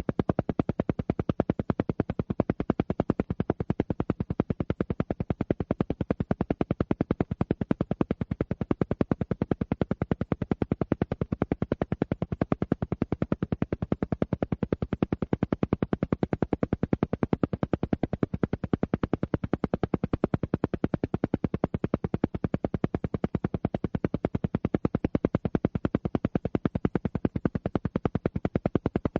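Alpha-wave brainwave-entrainment audio: a rapid, perfectly even train of pulses repeating many times a second without change.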